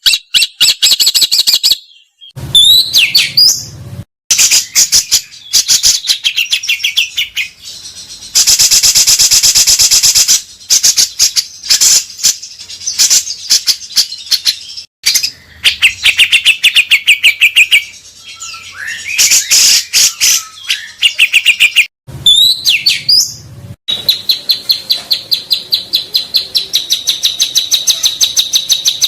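Songbird song in several pieces joined with abrupt cuts: loud, fast chattering trills and repeated sharp high notes. A long dry rattle comes about nine seconds in, and a steady, rapid trill runs near the end.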